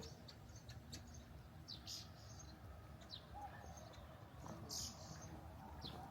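Birds chirping: short, high calls, some sliding down in pitch, about one a second, over a quiet, steady low rumble.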